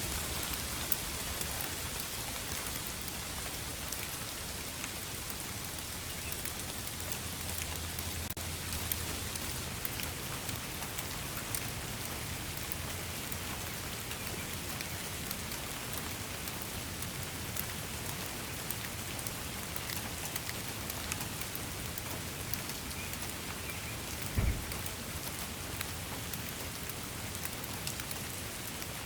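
Steady rain falling, a constant hiss with many separate drops ticking on a surface. A single brief low thump comes near the end.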